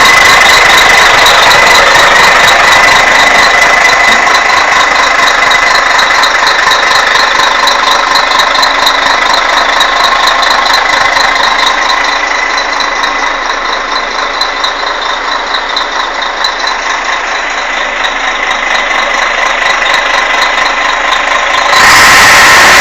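Scania K113 bus engine running with a steady high-pitched whine over it. It eases off a little midway, then gets suddenly louder near the end.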